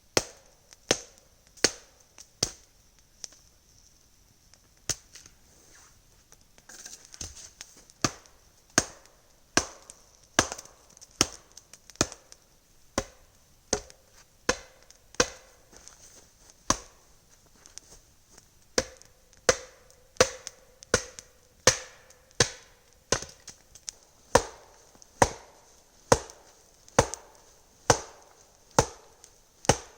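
Repeated sharp blows on wood, as when chopping or pounding logs for a log wall. A few scattered strikes come first, then a pause of a few seconds, then from about eight seconds in a steady rhythm of roughly one blow every 0.8 s.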